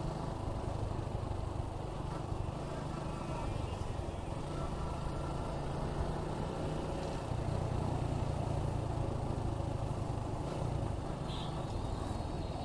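Suzuki Gixxer 155's single-cylinder engine running at a steady cruise, with wind and road noise over the microphone. The engine note grows a little stronger about halfway through.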